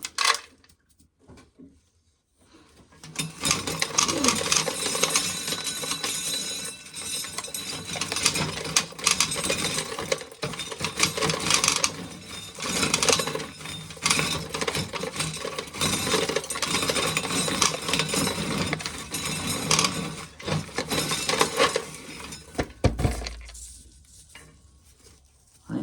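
Hand-cranked corn sheller running: a fast, continuous metallic rattling and clinking as an ear of dried corn is cranked through and the kernels are stripped off. It starts a few seconds in and stops shortly before the end, followed by a brief low thump.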